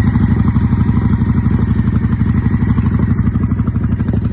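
1999 Honda Shadow ACE 750's V-twin engine running steadily close by, a loud, even, rapid beat of exhaust pulses without revving.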